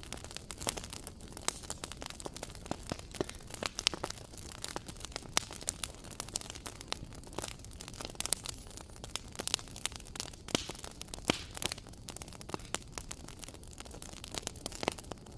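Wood fire crackling in a fireplace: a steady stream of irregular sharp pops and snaps over a low rumble of burning.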